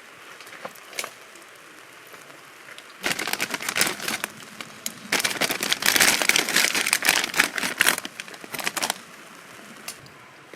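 Crinkling, rustling handling noise in two stretches, a short one about three seconds in and a longer, louder one from about five to nine seconds.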